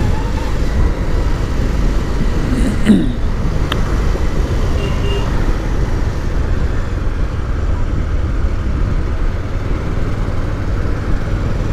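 Motorcycle riding along a city road: steady engine, road and wind noise, with traffic around. A short falling tone about three seconds in.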